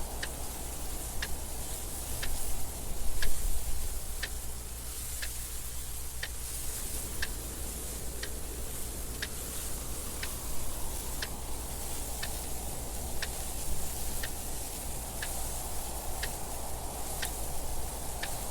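Clock ticking steadily, about one tick a second, over a constant wind noise.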